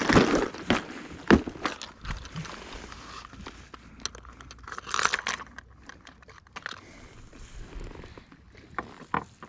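Handling noises of fishing tackle being rummaged through: irregular rustling, crinkling and sharp clicks, with the loudest clatter in the first second.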